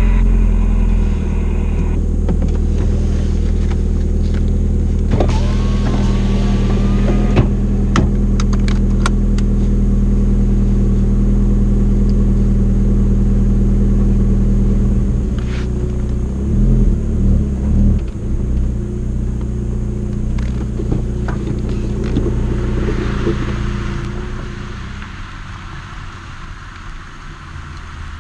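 Volkswagen 1.8T turbocharged four-cylinder engine idling steadily just after starting, heard from inside the cabin. A few short revs come a little past halfway, and the engine gets quieter near the end.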